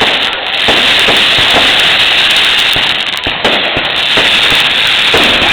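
Fireworks going off: a rapid run of bangs and crackles over a constant loud hiss.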